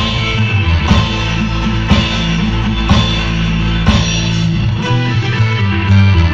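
Loud music with heavy, booming bass and a sharp beat about once a second, with a guitar-like melody over it, played through a large 'sound horeg' speaker rig.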